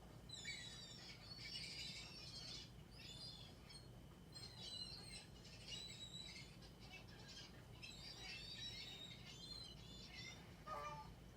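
Faint chirping of several small birds, short high calls overlapping one another almost without pause. Near the end a lower call comes in a few falling steps.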